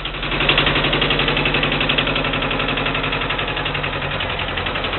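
Tractor engine running with a fast, even firing beat, getting louder about half a second in and then holding steady.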